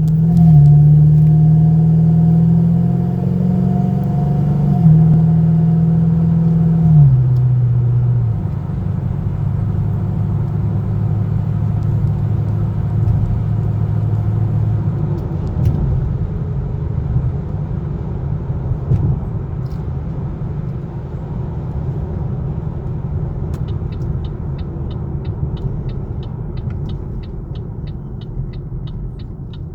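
Pontiac G8 GT's 6.0-litre V8 heard from inside the cabin through Stainless Works long-tube headers and a 3-inch cat-back exhaust. The exhaust drone rises in pitch under acceleration and drops twice on upshifts in the first eight seconds, then settles into a steady, lower cruising drone. A faint regular ticking joins near the end.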